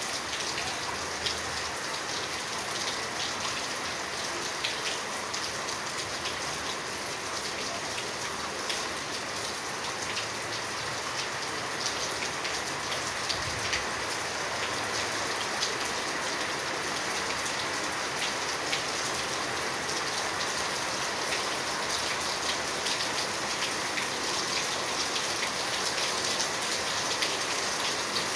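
Steady rain falling, with many individual drops ticking sharply through the even hiss. The rain grows slightly louder near the end.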